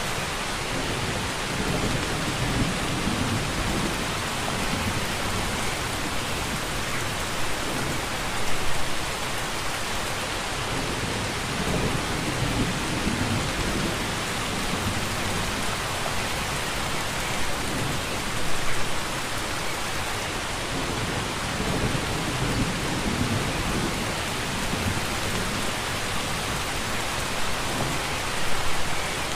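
Steady rain falling hard, with low rumbles swelling up every few seconds, the strongest about every ten seconds.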